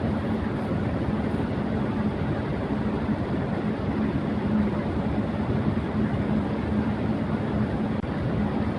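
Electric fan running steadily at high speed: an even rushing whoosh of air with a constant low hum underneath.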